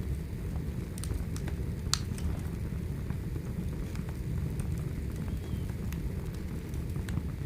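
Firewood burning: a steady low rumble of the fire with scattered sharp crackles and pops, one louder pop about two seconds in.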